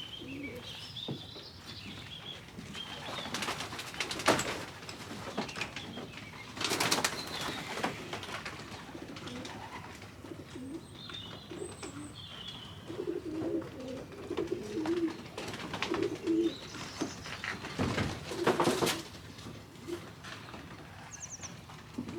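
Racing pigeons cooing in low repeated calls, with three loud bursts of wing flapping and rustling.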